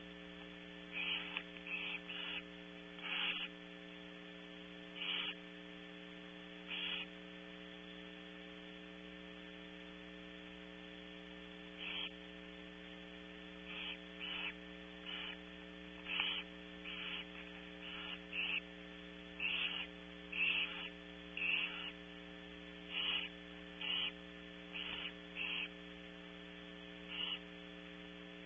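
Barn owls giving short, raspy hissing calls, about twenty scattered irregularly, the begging hiss owls make at a feeding. Under them runs a steady electrical hum from the nest camera's audio.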